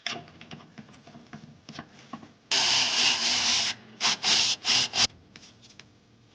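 Abrasive rubbing on a car's brake hub: one long scrubbing stroke of just over a second, then four short quick strokes.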